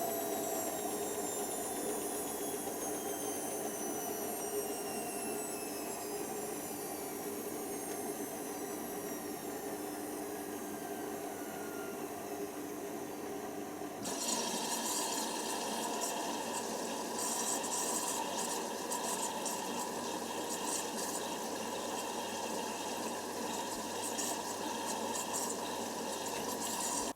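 Hoover Nextra washer dryer running, with water sounds: for the first half a whine falls steadily in pitch as the drum motor slows. About halfway the sound changes suddenly to a steady, hissier machine noise.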